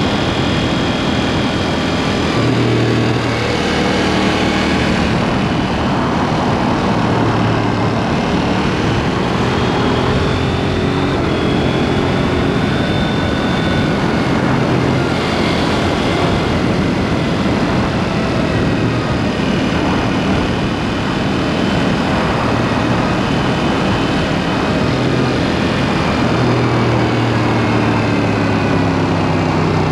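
KTM 790 Duke's parallel-twin engine through an aftermarket SpeedPro Cobra SPX exhaust, under way on the road, its revs rising and falling over and over, over steady road and wind noise.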